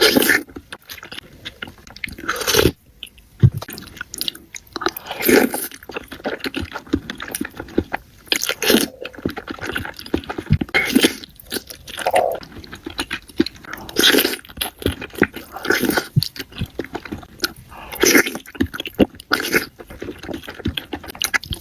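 Close-miked mukbang eating: a person biting and chewing crunchy food, with a loud crisp crunch every two to three seconds and small wet clicks of chewing in between.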